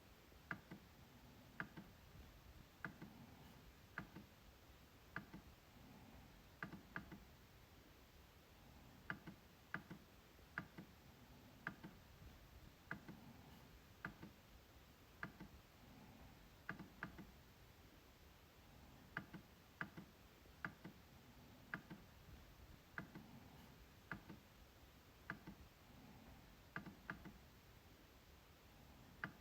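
MacBook trackpad being clicked: sharp, short clicks at an uneven pace, roughly one or two a second, many coming in quick pairs.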